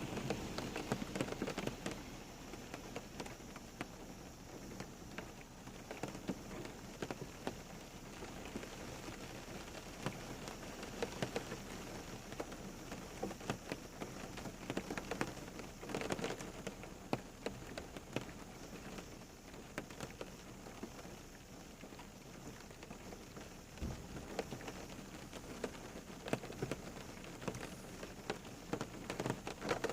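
Steady rain falling, with many close drops pattering and ticking on a hard surface.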